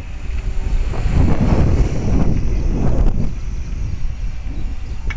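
Gusty wind buffeting the microphone, swelling in heavy low rumbles from about a second in, over the faint steady high whine of a 450-size electric RC helicopter in flight.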